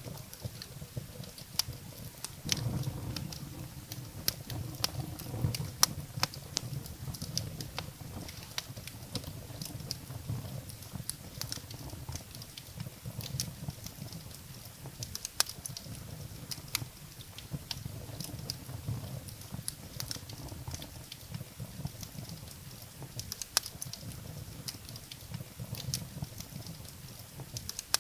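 Wood fire burning in a fireplace: firewood crackling and popping in irregular sharp snaps, a few louder than the rest, over a low, steady rumble of the flames.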